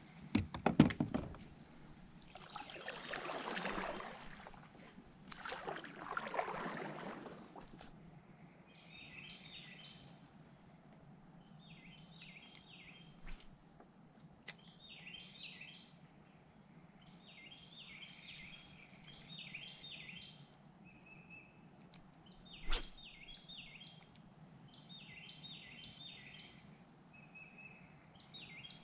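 A few knocks and clatters of gear on a plastic fishing kayak at the start, then two longer rushing sounds. After that a bird sings a short chirping phrase over and over, every couple of seconds, over a steady high-pitched insect drone, with one sharp knock about two-thirds of the way through.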